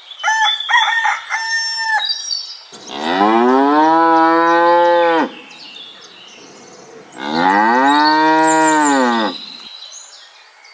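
Cow mooing: two long moos, each about two and a half seconds, rising then falling in pitch, about two seconds apart. Shorter, higher calls come in the first two seconds.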